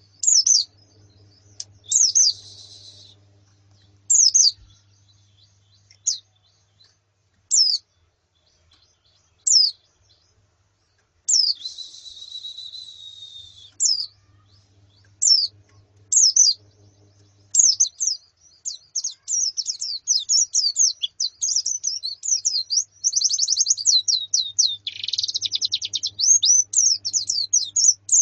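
White-eyes (pleci) calling: the female pleci calls and colony chatter used as song therapy for male pleci. Short high chirps come a second or two apart at first, then run into rapid, continuous twittering of several birds from a little past the middle.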